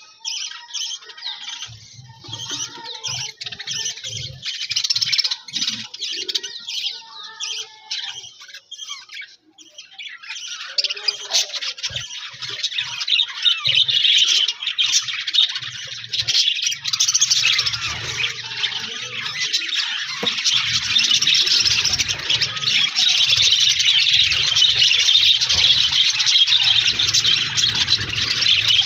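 A flock of budgerigars chirping and chattering: scattered calls at first, building about halfway through into a dense, continuous chatter of many birds at once.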